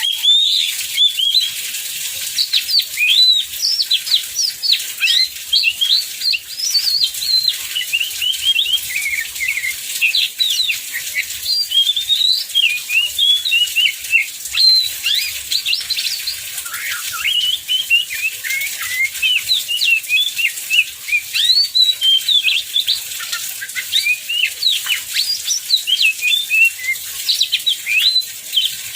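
Oriental magpie-robin singing continuously: a rapid, unbroken stream of varied whistled notes that sweep up and down, over a steady hiss of heavy rain.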